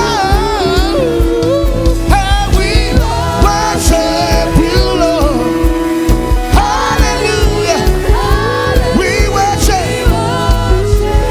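Live gospel praise-and-worship music: voices singing over a band, with a steady drum beat and sustained keyboard and bass tones.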